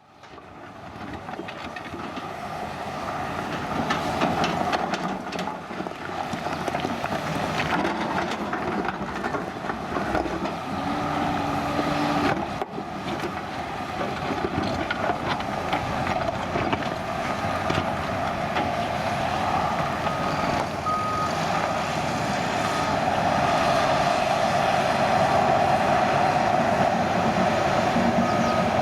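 Heavy construction machinery and trucks running at a levee repair site, a steady engine din. A few short reversing-alarm beeps sound in the last third.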